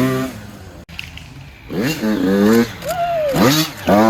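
Dirt bike engines revving as the bikes accelerate, the pitch climbing and dropping back several times as they shift through the gears.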